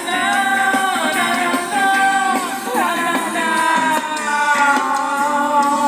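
Music with singing: long held sung notes over the accompaniment, one note slowly sliding down in pitch in the second half.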